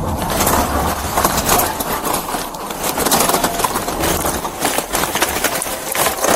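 A vehicle running with steady road and wind noise and many sharp crackling clicks.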